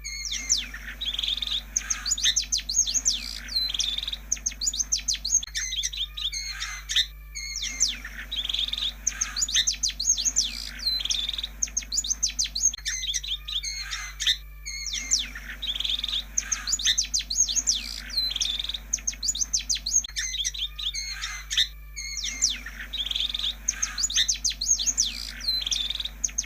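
Long-tailed shrike (pentet) song from a lure recording: rapid chirps and down-sweeping whistles in stretches of about five seconds. The same passage repeats after short pauses about every seven seconds, over a steady low hum.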